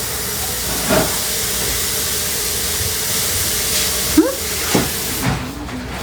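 A steady hiss that cuts off suddenly about five seconds in, with a few brief short vocal sounds over it.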